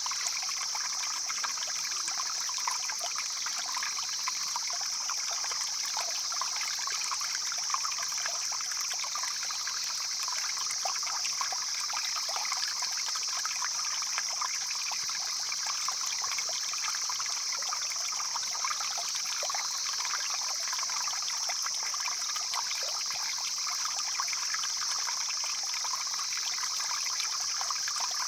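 A stream flowing and trickling steadily, with a continuous high-pitched hiss over it.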